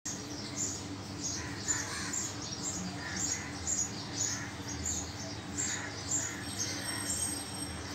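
Birds chirping: short high chirps repeating about two to three times a second, with some lower calls mixed in, over a faint steady hum.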